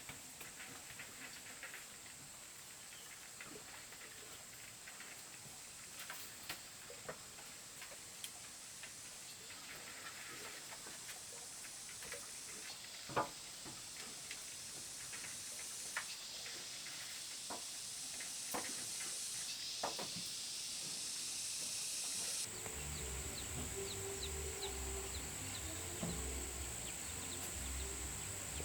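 Steady high-pitched insect drone, growing louder in steps, with scattered light knocks and clicks; a choppy lower sound comes in near the end.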